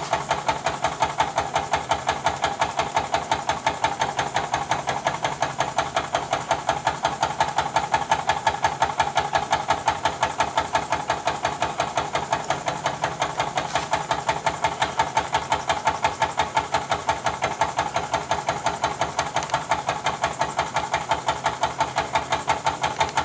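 Jean Comby model steam engine running steadily, its exhaust puffing in a fast, even rhythm over a hiss of steam escaping from small leaks.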